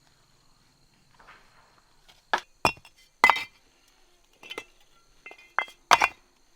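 Sharp clinks and knocks of hard objects, about seven spread over the second half, some with a brief ring.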